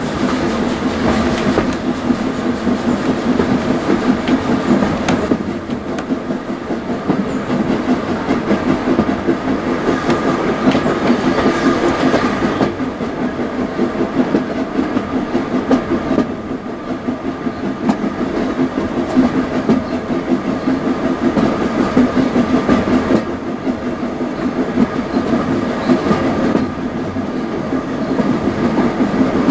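Heritage railway carriage running along the line, heard from inside the compartment: a steady rumble of wheels on track, with occasional clicks over the rail joints.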